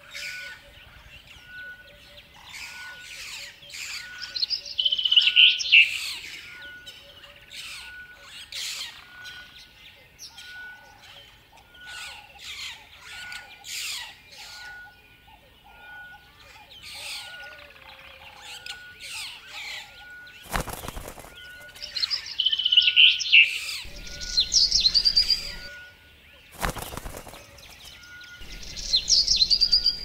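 Songbirds chirping, with loud phrases of song about 5 seconds in, again around 23–25 seconds and at the very end. A short faint note repeats a little more often than once a second. Two brief flutters of wing flaps come about 21 and 27 seconds in.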